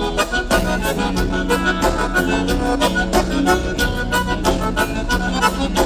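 Instrumental break of gaúcho dance music: an accordion plays the melody over bass and a steady drum beat, with no singing.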